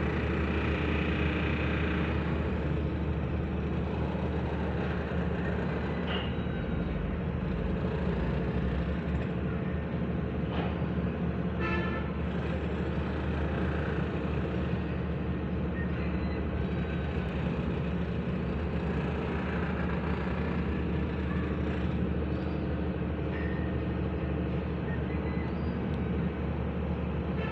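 Steady hum of vehicle engines and road traffic, with a short higher toot about twelve seconds in.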